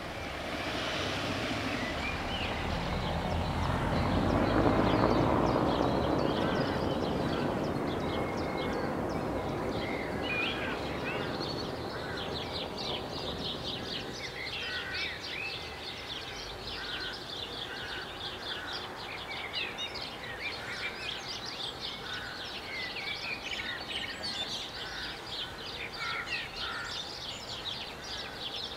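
Songbirds chirping with many short, rapid high calls. In the first half a broad rushing noise, like passing traffic, swells to its loudest about five seconds in and then fades away.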